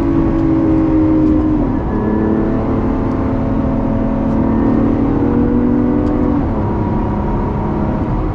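Lamborghini Aventador SVJ's V12 engine heard from inside the cabin while driving at highway speed, with tyre and road noise underneath. The engine pitch drops sharply twice, about two seconds in and again about six and a half seconds in, as it shifts up a gear.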